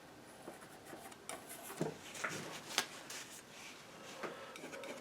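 Painting knife working thick paint: light scrapes and dabs with a few sharper clicks of the blade, the sharpest about two and three seconds in.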